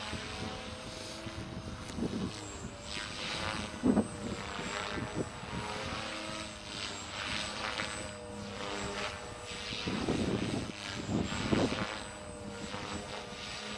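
Beam Acro480 electric RC helicopter in flight: the brushless motor and rotor hum steadily, with the rotor whoosh swelling several times during manoeuvres.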